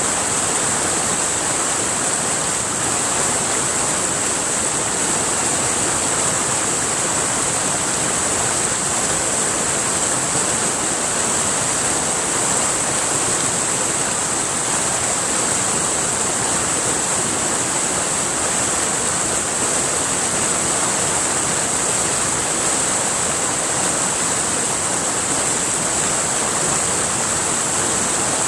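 River water rushing steadily over rocks, an even, unbroken wash of sound with a steady high hiss running through it.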